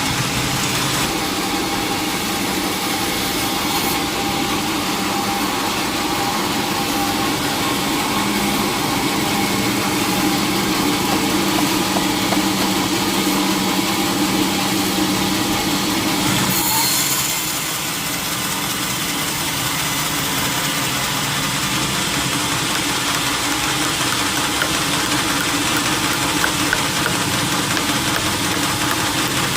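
Sawmill machinery running steadily with an engine-like hum; about halfway through, its tone shifts and it briefly gets a little quieter before settling again.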